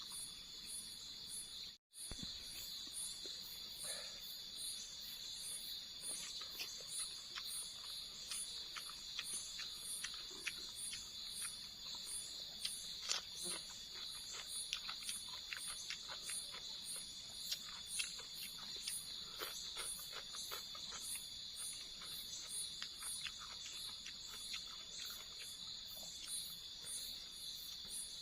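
Night insect chorus: a steady shrill drone with a higher chirp pulsing about twice a second, with scattered light clicks and taps close by. The sound cuts out for an instant about two seconds in.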